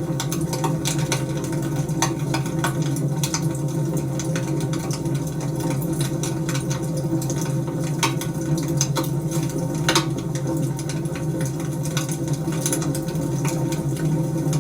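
Wood fire burning: irregular sharp crackles and pops over a steady low rush of flame, with one louder pop about ten seconds in.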